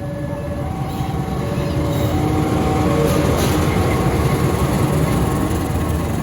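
A train running past close by: a loud, steady rumble of wheels on rail that builds over the first two seconds and then holds.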